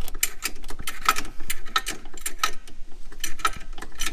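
Quick, even metallic ratcheting clicks, about six a second, with a brief pause around three seconds in, as a ratchet mechanism is worked.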